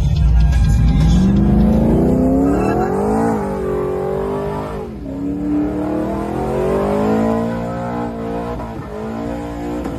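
Truck engine accelerating hard, its pitch climbing, dropping sharply about five seconds in, then climbing again.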